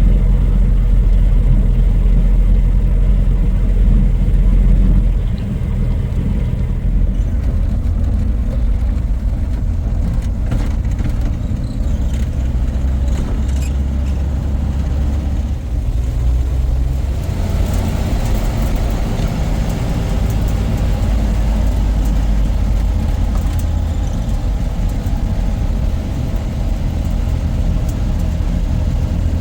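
A low, steady engine drone, its pitch shifting slightly a few times.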